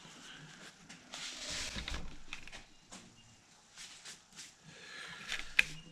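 Light clicks, taps and rustling from hands handling the parts of a Technics 1200 turntable as it is taken apart.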